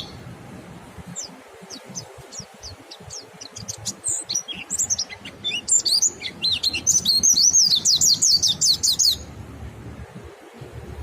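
White-eyes (pleci) singing. Scattered high chips come first, then a dense, rapid twittering song of high notes for several seconds that stops abruptly near the end.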